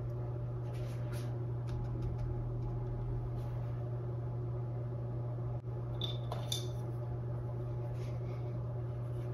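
Faint scattered taps and scratches of a paintbrush working paint on stretched canvas, over a steady low electrical hum.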